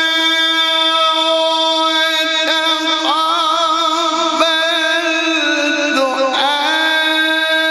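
Male Quran reciter's voice in mujawwad style, holding one long note on a single vowel at a steady high pitch, with brief melodic turns about three, four and a half and six seconds in.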